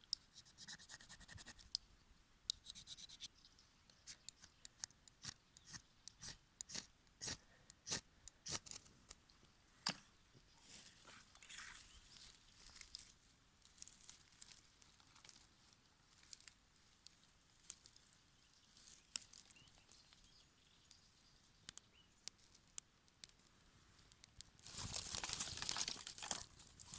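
Firesteel (ferrocerium rod) struck again and again with a scraper: a run of short, sharp scrapes and clicks at uneven intervals. A louder rushing noise lasts about two seconds near the end.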